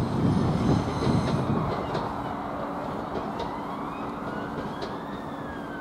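A Class 745 electric train's rumble on the rails fades as it pulls away, then an emergency-vehicle siren wails, rising slowly in pitch and starting to fall near the end.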